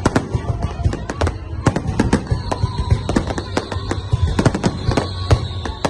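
Fireworks going off in a rapid, irregular barrage of sharp bangs, several a second, over a low rumble. A steady high tone joins in about halfway through.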